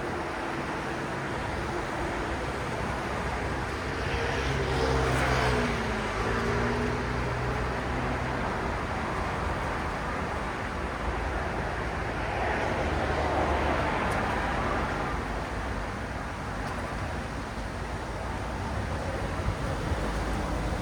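Steady city road traffic. A vehicle passes close about five seconds in, its engine tone dropping in pitch as it goes by, and another swell of passing traffic follows a few seconds after the middle.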